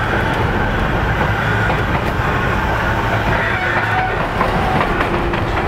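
Electric commuter train running on the Narita Line, heard from inside the car: a steady rumble of wheels on rail with a low hum and a few faint clicks from the track.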